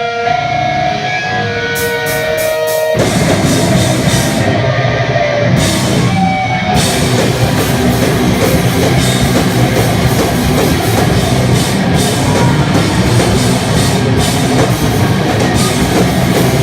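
Heavy rock band playing live: held electric guitar notes ring for a few seconds, then drums and distorted guitars come in together about three seconds in and play on loud and dense.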